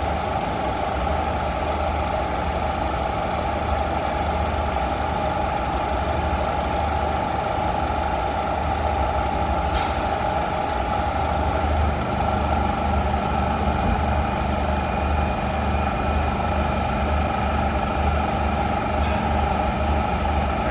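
Diesel passenger train idling at a station stop: a steady engine drone with a fast low pulse and a steady whine over it. A single sharp click sounds about halfway through.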